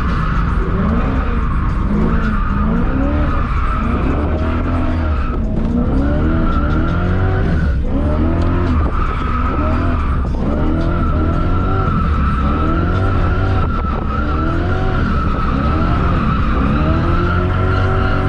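Drift car on track, its engine revving up and down over and over as the driver works the throttle, while the tyres squeal in a steady, continuous high screech through the slide.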